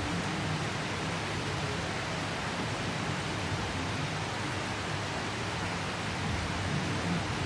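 Steady downpour of tropical rain, an even hiss with no breaks.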